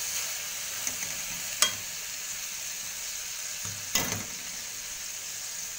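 Tomatoes and dates sizzling steadily in hot oil in a metal kadai while being stirred with a metal ladle. The ladle clicks sharply against the pan twice, about a second and a half in and again about four seconds in.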